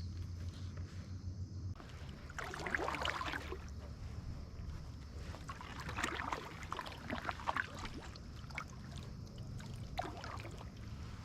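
Paddle strokes from a Hornbeck canoe: three swishing dips of the paddle through the water, a few seconds apart, over a low steady rumble.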